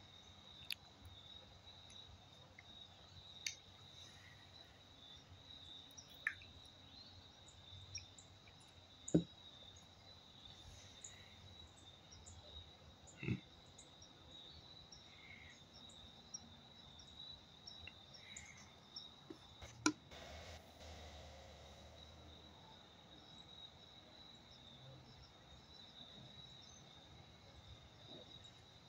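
Faint, steady high trill of a night-time cricket chorus, with scattered light clicks and knocks every few seconds; the sharpest come about nine and twenty seconds in.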